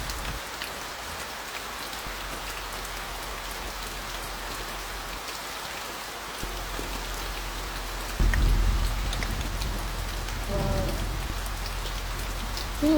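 Heavy rain falling steadily on a car, heard from inside the cabin, with scattered drops ticking. A low rumble joins about two thirds of the way in.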